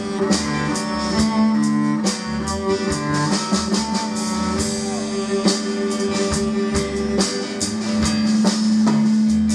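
Live band playing an instrumental passage between vocal lines: guitar, bass and drum kit keeping a steady beat, with a sustained bowed string line.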